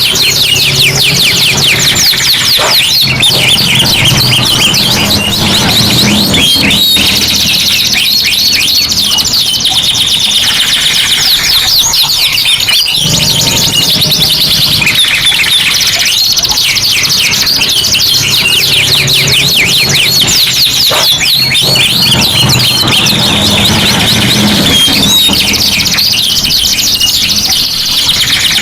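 Several domestic canaries singing at once in full song: a dense, unbroken run of fast trills, rolls and chirps.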